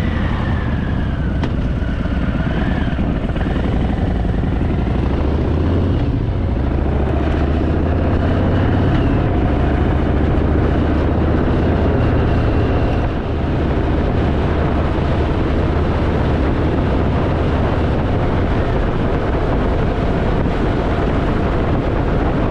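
Harley-Davidson motorcycle riding along, its engine giving a steady low rumble mixed with wind rushing over the microphone.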